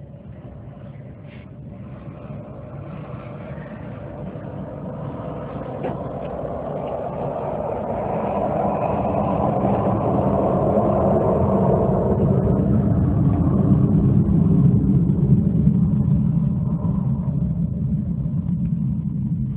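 Jet aircraft engines running up to power: a deep rumble that swells steadily louder over about fourteen seconds, with a thin high whine above it, then eases slightly near the end.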